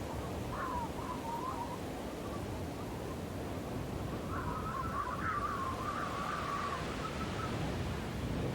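Snowstorm wind blowing steadily. A wavering, higher-pitched cry rides over it briefly near the start and again for about three seconds in the middle.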